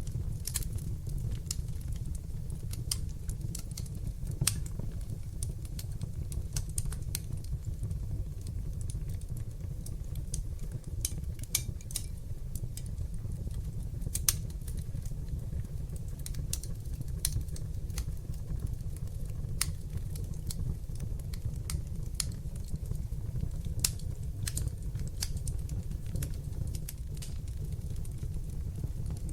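Fire burning in a fireplace: a steady low rumble of flames with irregular sharp crackles scattered throughout and a few louder pops.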